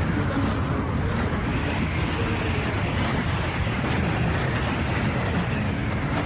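Steady, loud rush of air and engine noise, as of a damaged airliner in flight, laid in as a dramatised sound effect.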